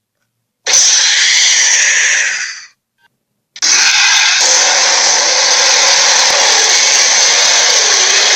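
Harsh, noisy giant-creature sound effect: a loud blast of about two seconds that fades out, then after a gap of about a second a long continuous one.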